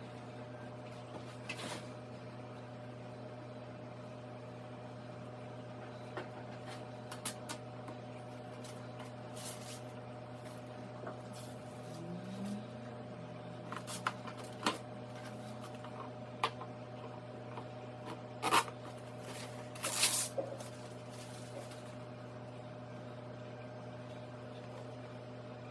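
Samsung microwave oven running with a steady hum, with scattered light clicks and knocks over it; the two loudest knocks come about two-thirds of the way through.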